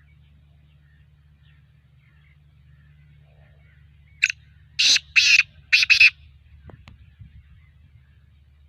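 Black francolin calling: a harsh, grating phrase of about five rapid notes about halfway through, over a faint steady low hum.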